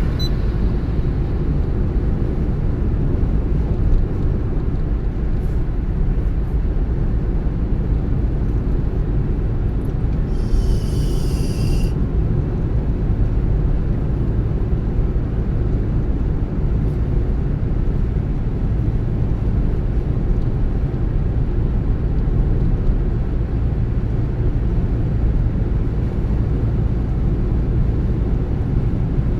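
A car driving along the road: steady low rumble of engine and tyre noise. A brief higher hiss comes about ten seconds in and lasts under two seconds.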